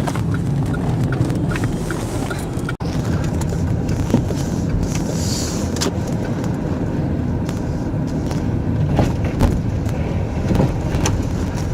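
Steady rumble of a car's engine and road noise heard from inside the cabin, with a few faint clicks; the sound cuts out for an instant about three seconds in.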